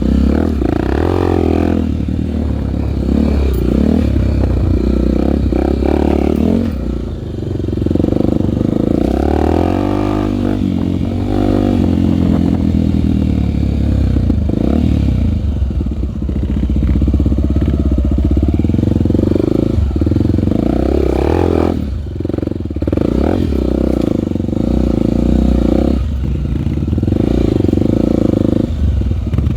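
Honda single-cylinder four-stroke trail bike engine running while being ridden, its note rising and falling over and over with the throttle.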